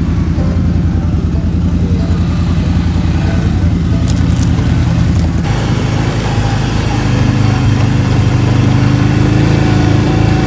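Four-wheeler (ATV) engine running steadily under way; the engine note shifts about halfway through.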